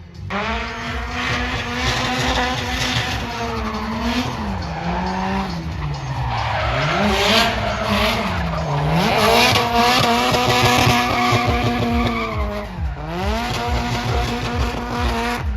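Drift car engine held at high revs, dropping sharply and climbing back several times as the throttle is lifted and reapplied, over continuous tyre squeal from the sliding rear tyres.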